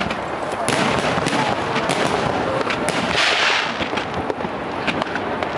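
Fireworks display: a steady run of pops and bangs from bursting shells, with a denser stretch of crackling about three seconds in.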